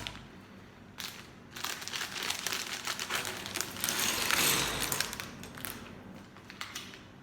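Plastic Lego parts bag crinkling as it is handled and opened, in uneven bursts that are busiest in the middle and die down near the end.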